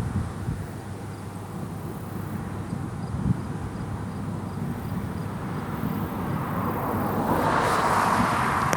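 Car cabin road noise while driving: a steady low rumble of engine and tyres, with a rising rush of noise near the end.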